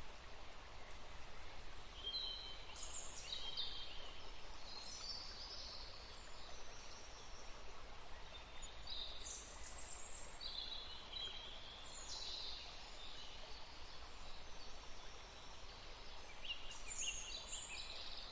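Small birds singing in three bouts of quick, high chirping phrases, over a steady low background hum.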